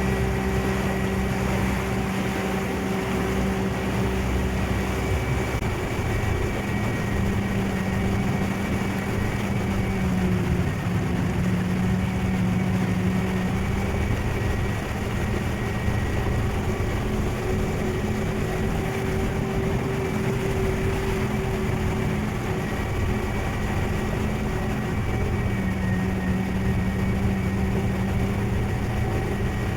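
Ferry's engine running steadily, a constant hum with a few steady tones that drift slightly in pitch, heard on board over the noise of water and wind.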